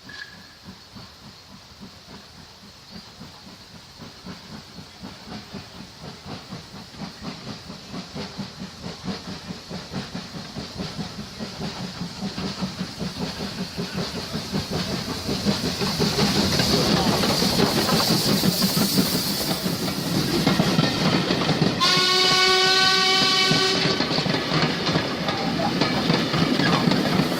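A steam locomotive, Ivatt Class 2MT No 41241, working a train and getting steadily louder as it approaches, with a regular beat running throughout and a burst of steam hiss as it nears. About 22 seconds in, its steam whistle sounds for about two seconds.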